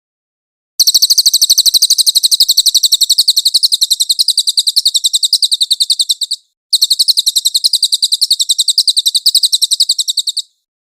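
Cililin bird singing a high, rapid chirping trill of about eleven notes a second, in two long bursts with a short break just past the middle.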